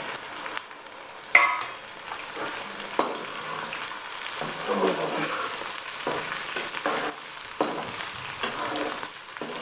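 Cut okra sizzling as it fries in hot oil in a metal kadai, with a slotted metal spoon stirring and scraping against the pan every second or so. A sharp metal clatter about a second in, as the okra is tipped in.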